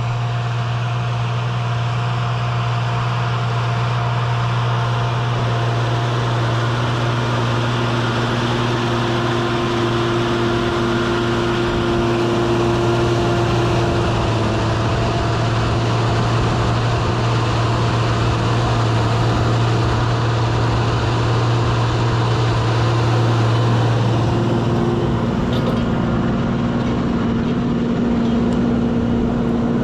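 Valtra tractor's diesel engine running steadily under work, with a change in its note late on.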